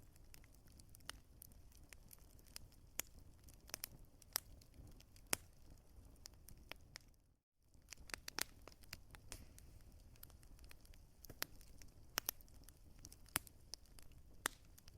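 Wood fire crackling, with sharp irregular pops over a faint low rumble. The sound cuts out completely for a moment about halfway through.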